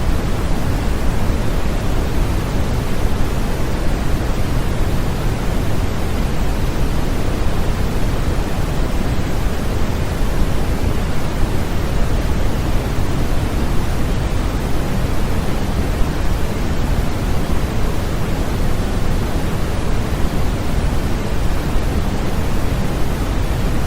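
Continuous, steady sleep-aid white noise: an even hiss, heavier in the low end, that does not change.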